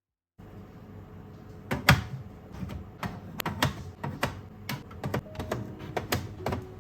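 Irregular clicks and knocks of plastic food containers and lids being handled and set down, with the loudest knock about two seconds in.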